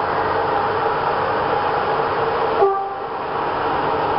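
CFR electric locomotive passing close by with a passenger train, giving a steady hum with several tones over the rolling noise. The tones cut off suddenly after a short bump about two-thirds of the way through as the locomotive goes by, leaving the rumble of the coaches rolling over the rails.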